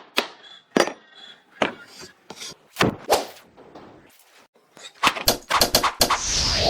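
Sharp, separate knocks and taps of workshop work on hard parts, one every half second or so, crowding into a quick clatter in the last two seconds as a hiss comes in.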